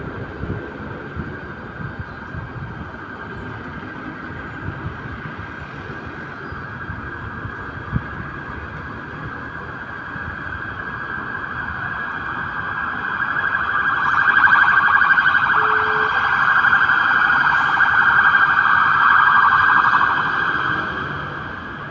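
City square ambience with a constant traffic background and a few light knocks. A steady mid-pitched buzzing sound swells up about halfway through, holds for several seconds and fades away near the end.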